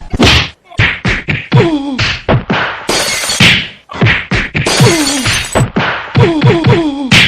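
Cartoon fight sound effect: a rapid jumble of whacks, thuds and crashes mixed with short sounds that slide down in pitch, with two longer crashing bursts about three and five seconds in.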